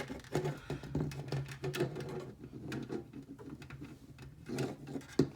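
Small plastic model-kit parts clicking and tapping irregularly as they are handled and pressed together, over a low steady hum.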